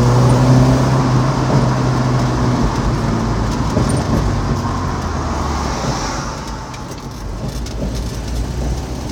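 Car engine pulling under throttle with a loud induction (intake) noise, its ignition timing off so it sounds fast but makes little power. A steady drone for the first couple of seconds, then a rushing sound that fades about seven seconds in.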